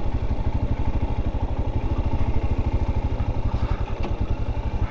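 Royal Enfield 411 single-cylinder engine running steadily while riding, with an even pulsing beat.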